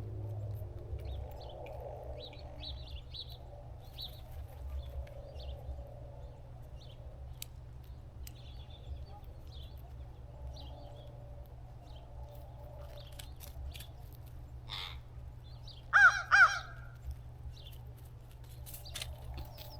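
Crow cawing: a loud, quick run of three short, harsh caws about three-quarters of the way through, with faint high chirps and ticks before it.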